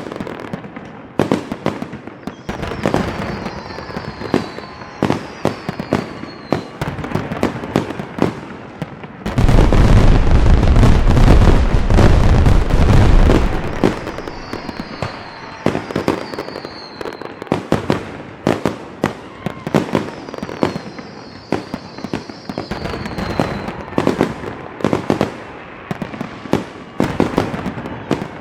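Fireworks going off: a continuous run of sharp cracks and bangs, with short falling whistles at a few points. About a third of the way in comes a louder, denser stretch lasting about four seconds.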